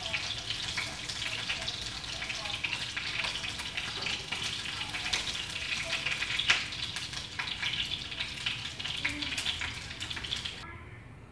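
Chicken wings sizzling as they shallow-fry in cooking oil in a frying pan, already golden brown and nearly done. There are a few sharp clicks along the way. The sizzle cuts off abruptly near the end.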